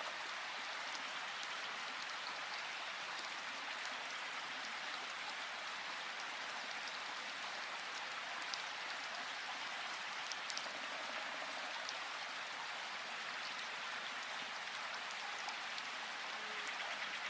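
Steady rushing of flowing river water, with a few faint brief high ticks over it.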